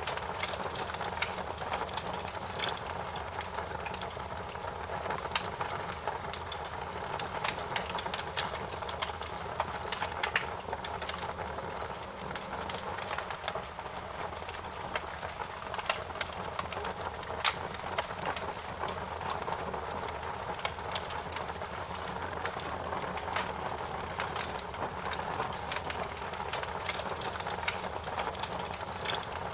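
Fire crackling: a steady rush under frequent, irregular sharp pops and snaps.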